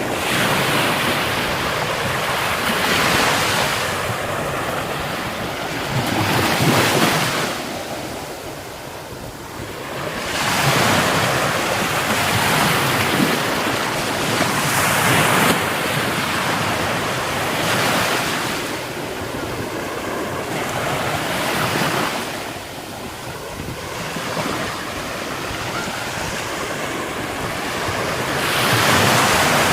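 Rough sea surf breaking on the shore, the rushing noise swelling and falling back every few seconds, with wind on the microphone.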